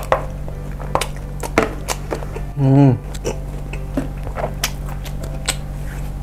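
Close-miked chewing of bakso meatballs, with many wet mouth clicks, and a short hummed 'mm' with a wavering pitch about halfway through. A steady low hum runs underneath.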